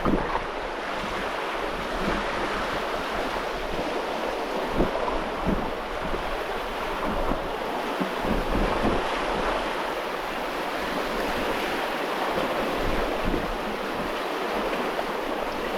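Steady rush of water along a sailboat's hull, with wind on the microphone, as the boat rides through the rollers of a ship's wake.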